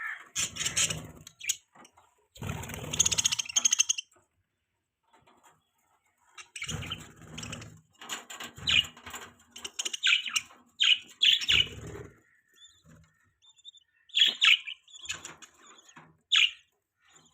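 Budgerigars chirping in short, sharp calls, with several bursts of flapping wings; a lull of a couple of seconds comes about four seconds in.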